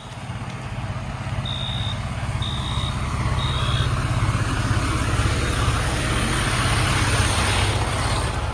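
Diesel fire apparatus idling with a steady low rumble that grows louder through the second half. Over it, three short high beeps a second apart, about two to four seconds in, in the pattern of a building fire alarm sounding for the water flow alarm.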